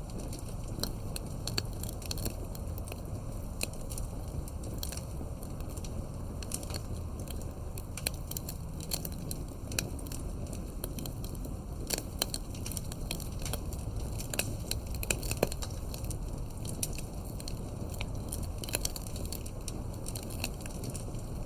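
Campfire of burning firewood, crackling steadily over a low rumble of flames, with many small irregular snaps and an occasional louder pop.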